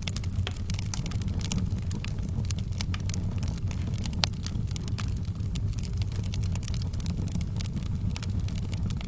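Wood fire in a fireplace crackling: a dense run of small pops and snaps over a steady low rumble of the flames, with one sharper crack about four seconds in.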